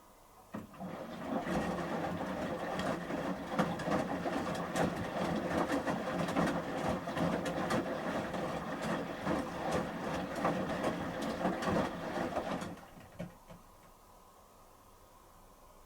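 Samsung front-loading washing machine drum turning during the heated wash phase of a shirts 30°C cycle: water sloshing and the wet shirts tumbling with a run of small knocks. It starts about half a second in and stops about 13 seconds in as the drum pauses.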